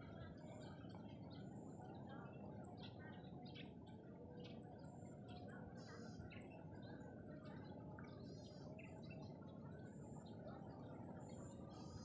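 Birds chirping with many short, scattered calls, faint over a steady low background rumble.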